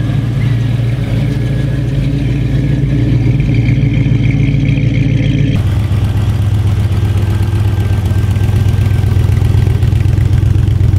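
Two classic car engines running at low speed as the cars drive slowly past: first a late-1930s Ford pickup with a steady note, then, after a sudden cut about halfway through, a hot-rodded Ford Popular with a lower, pulsing exhaust note.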